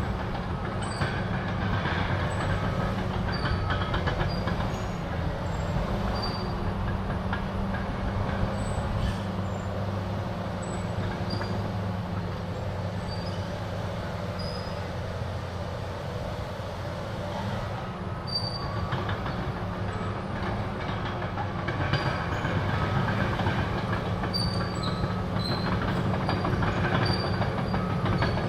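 Caterpillar D6R crawler dozer working: its C9 diesel engine runs steadily under a constant low hum while the steel tracks clatter and squeak. The engine grows a little louder about two-thirds of the way through.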